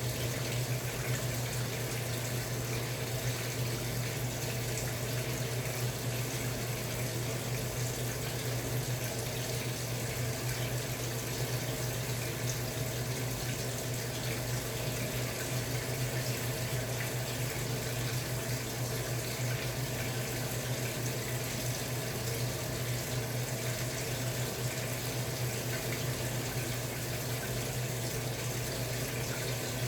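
Samsung Wobble 14 kg top-loading washing machine running on a comforter load: a steady rush of water over a constant low hum.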